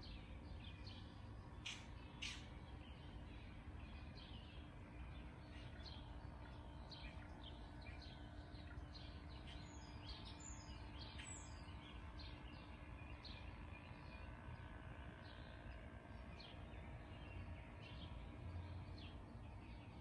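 Faint birdsong: many short, high chirps and calls from several birds scattered throughout, over a steady low background rumble.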